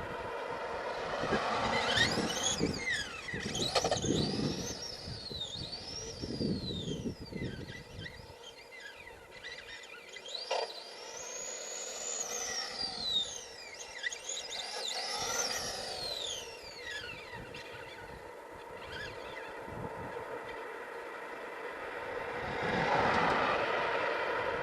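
Electric RC monster truck with a 12-turn brushed motor, its high motor whine rising and falling again and again as it speeds up and slows down.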